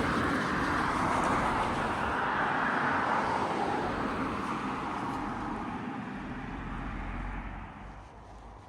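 A passing vehicle: a loud rushing noise that slowly fades away.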